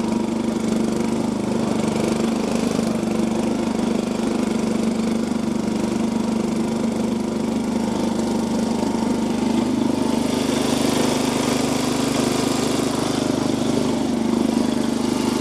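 Off-road Yazoo riding lawn mower's small engine running at a steady speed, with more hiss joining in about ten seconds in.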